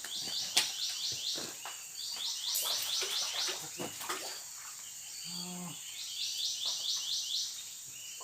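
Forest animal calls: repeated bursts of rapid high chirps, about six notes to a burst, a burst every two seconds or so, over a steady high insect hiss. Scattered sharp clicks and snaps, and a short low hum about five seconds in.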